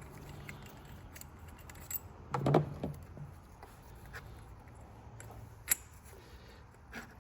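Light metallic clinks and rattles of tools and parts being handled while a diesel fuel injector is worked loose. There is a louder cluster of knocks about two and a half seconds in and a single sharp click later on.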